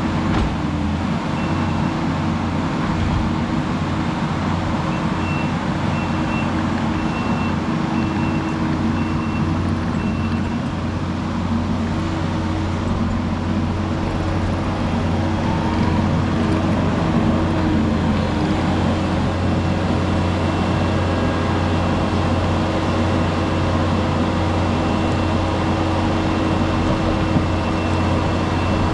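Heavy construction machine engine running steadily under work, with a reversing alarm beeping in an even series for several seconds in the first third.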